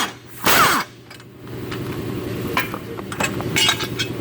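A brief whirring burst from a power tool turning a socket on a bolt, winding down in pitch. Then several light metallic clinks of tools and parts over a steady low hum.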